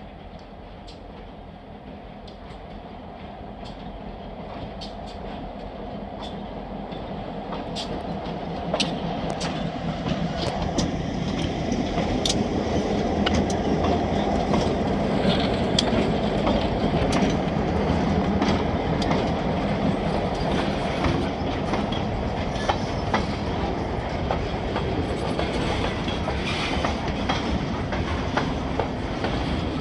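Vermont Railway freight train passing close by: the diesel locomotives' engines rumble and grow steadily louder over the first ten seconds or so as they approach, then the loaded train rolls past with a steady rumble and frequent sharp clicks from the wheels on the rails.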